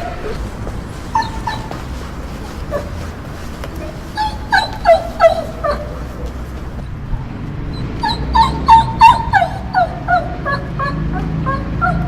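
Dog whining: runs of short, high whimpers, often falling in pitch, coming in three bursts with pauses between.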